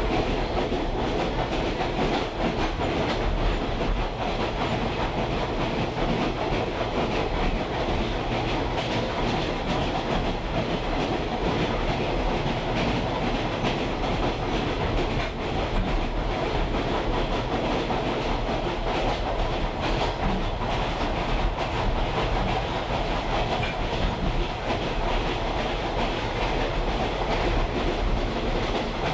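Steady rumble and rattle of a railroad caboose rolling along the track, heard from aboard the moving train.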